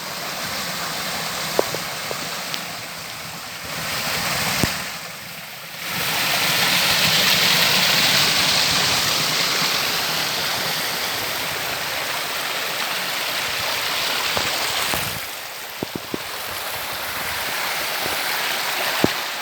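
Jungle river water rushing over rocks, a steady hiss that grows louder for much of the middle stretch and then eases. A few faint clicks sound over it.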